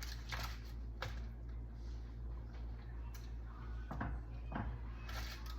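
Cookware and utensils being handled: about half a dozen light clicks and knocks at irregular intervals, over a steady low hum.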